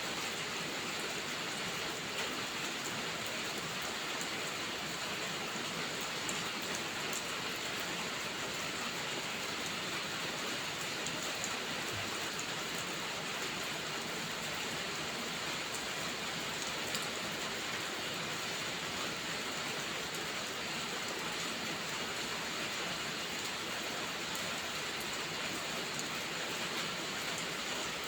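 Steady rainfall, an even hiss with scattered faint ticks.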